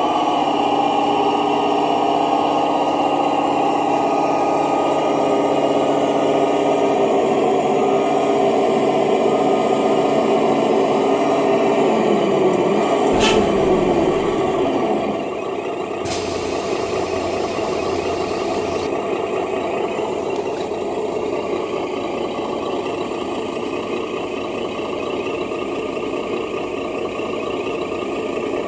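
Truck engine sound from a 1/10-scale RC Scania truck, running steadily, then winding down in pitch about halfway through with a sharp click. A short air-brake-like hiss follows, then a quieter steady idle.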